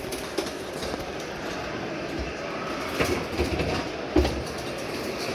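Model trains running on the show's layouts, a steady rolling rumble, with a couple of low thumps about three and four seconds in.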